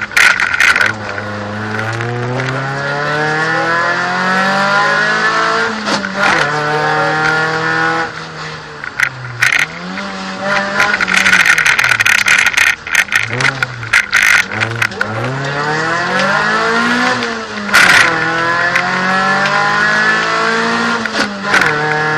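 Volkswagen Golf II 16V's sixteen-valve four-cylinder engine heard from inside the cabin, revving hard up through the gears. The pitch climbs and falls back at each gearshift. There is a sharp loud clatter about eighteen seconds in.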